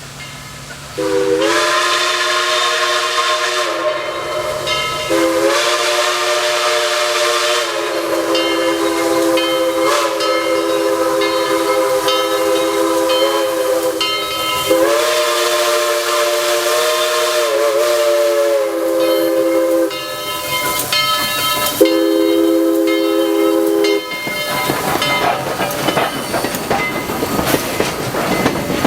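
Southern Railway 2-8-2 steam locomotive 4501 blowing its multi-note chime whistle, several notes sounding at once in a series of long blasts ending with a short one. Near the end the whistle stops and the loud hiss and rolling noise of the engine passing take over.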